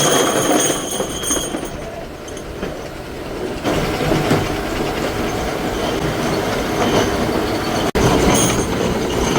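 Factory metalworking machinery running: a loud, steady mechanical din with metallic squealing and clatter, changing abruptly twice.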